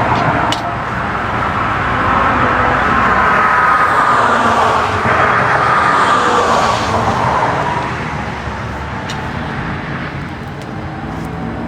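Road traffic going by: a vehicle's noise swells and then fades, its tone slowly falling over several seconds.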